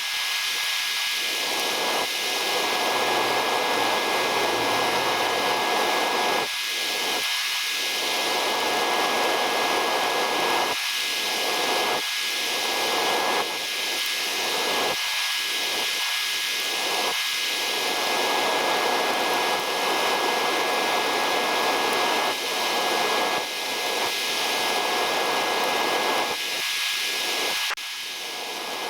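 Steady rushing noise like a running fan or blower, with a thin constant high whine, its lower part dropping away briefly every few seconds.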